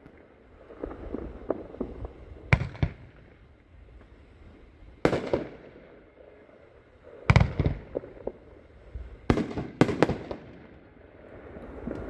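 Winda 'Mother of All Bombs' firework cake firing shots that burst overhead: five sharp booms, the last two close together, with smaller pops and glittering crackle between them.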